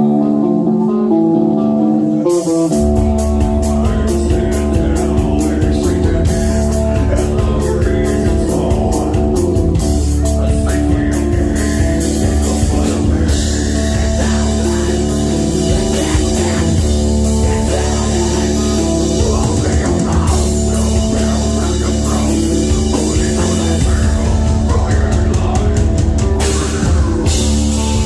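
Live heavy metal band playing loud: a distorted guitar riff alone for about two seconds, then drums and bass crash in and the full band plays on.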